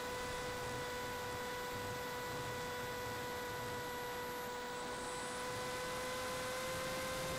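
A steady, unchanging hum with a clear pitch and several overtones over a faint hiss.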